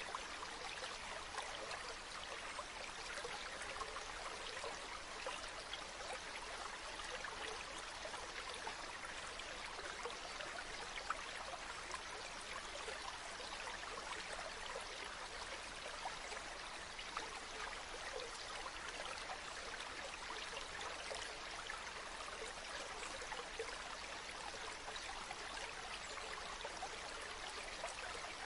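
Shallow river babbling steadily over stones, with a few brief sharp ticks.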